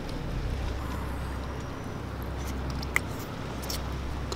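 Steady low background rumble with a few small clicks and smacks from chewing a tamarind snail, the sharpest about three seconds in.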